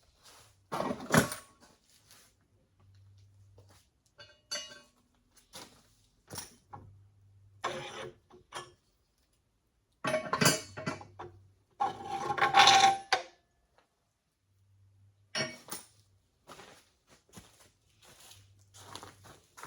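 Intermittent clinks and clatter of metal parts and tools being handled, in scattered bursts with pauses between; one burst about two-thirds through is the loudest and carries a short metallic ring.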